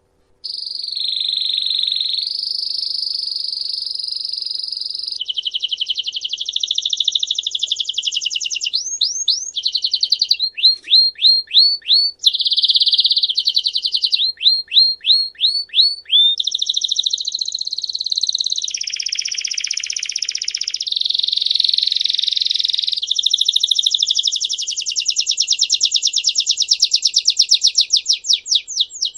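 A songbird singing one continuous song made of rapid trills. Each trill is a run of one repeated note, and the song switches to a new trill every one to three seconds, some trills being quick falling sweeps. It starts about half a second in.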